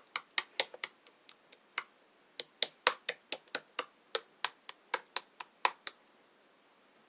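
Homemade slime being squeezed and poked by hand, giving a quick run of sharp popping clicks, about three to four a second, that stops about six seconds in.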